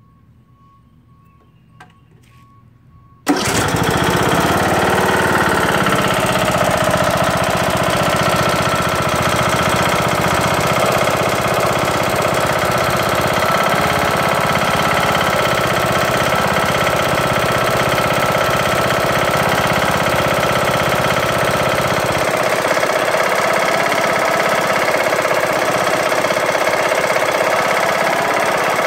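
Briggs & Stratton lawn tractor engine starting abruptly about three seconds in, then running steadily with a loud knock. It began after a broken camshaft and timing gear were replaced; the owner suspects something loose or out of alignment, with a faint wobble keeping time with the knocking.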